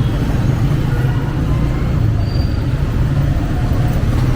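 125cc motorcycle engine running at a steady pace under way, amid street traffic noise.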